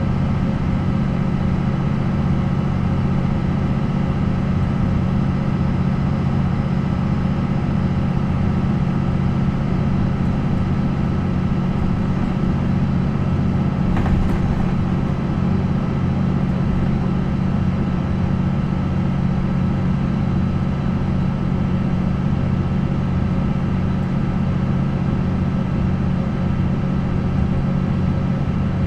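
MAN NL 263 city bus's D28 six-cylinder diesel engine running at a steady, unchanging speed. There is a single faint click about halfway through.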